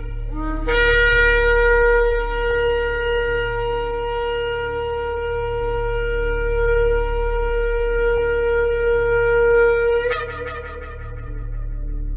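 A shofar sounded in one long held blast. It starts on a brief lower note that jumps up to a steady, bright tone, holds for about nine seconds, then breaks off about ten seconds in and trails away more faintly. A steady low hum runs underneath.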